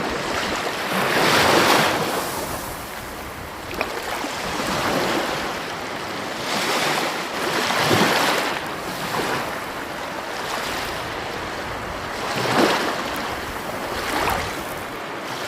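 Sea waves breaking and washing up the shore, the rush of surf swelling and falling every few seconds.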